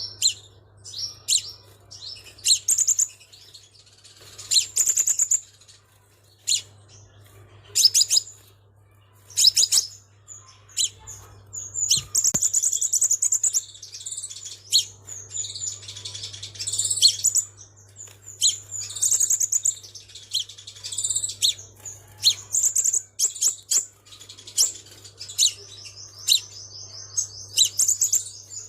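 Sunbird singing: quick series of high-pitched chirps and twittering phrases, ending in a long even trill near the end. A faint steady low hum lies underneath.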